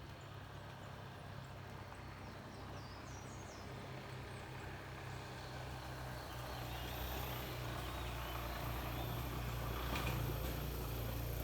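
A low rumble and rushing noise growing steadily louder, with a few short, downward-sliding bird chirps about two to three seconds in and some faint clicks near the end.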